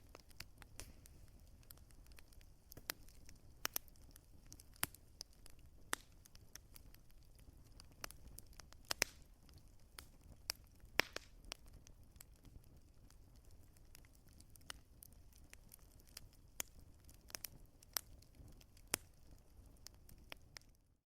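Wood fire crackling faintly: irregular sharp pops and snaps, several a second, over a soft low rush of the flames.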